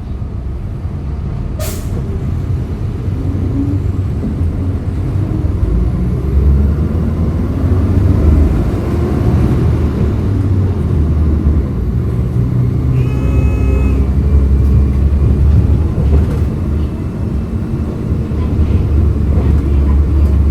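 Hyundai Green City CNG city bus engine running under way, a low rumble that grows louder over the first several seconds and then holds steady. A sharp click comes under two seconds in, and a short pitched tone sounds about thirteen seconds in.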